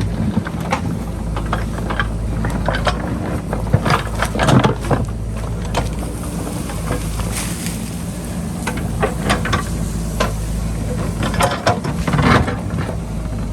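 JCB backhoe loader's diesel engine running steadily under load, with repeated knocks and scrapes as the bucket digs into rock and soil, a cluster about four seconds in and another near the end.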